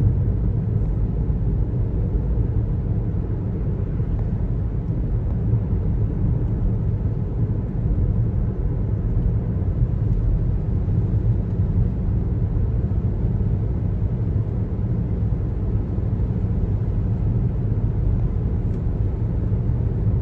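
Car driving on a highway: steady low rumble of tyre and road noise with the engine underneath, even in level throughout.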